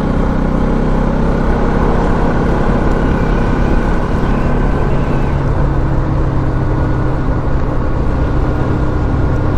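Motorcycle engine running steadily under way. Its note changes about halfway through.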